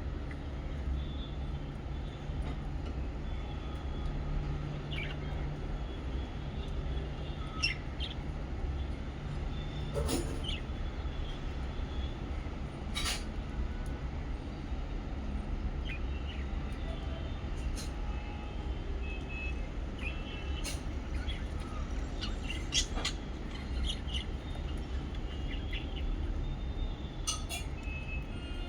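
Lovebirds giving short, scattered chirps and clicks over a steady low rumble.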